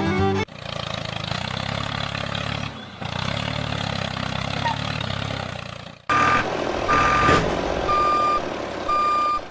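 A heavy vehicle's engine running, then a reversing alarm beeping four times, about once a second, over the engine.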